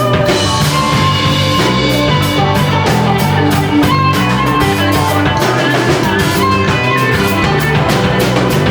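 A rock band playing live, instrumental: electric guitar, bass and drum kit.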